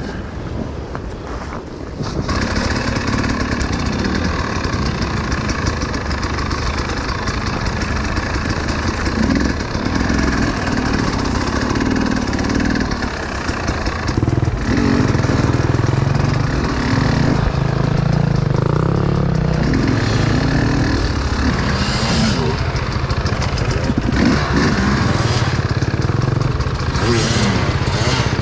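Enduro motorcycle engine running and revving, getting louder about two seconds in.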